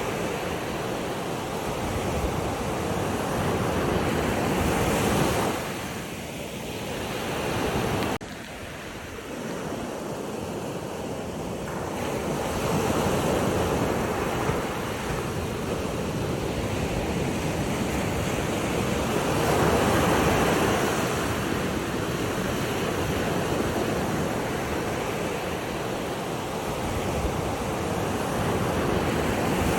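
Sea waves washing in and out, swelling and easing every few seconds, with a sudden drop in level about eight seconds in.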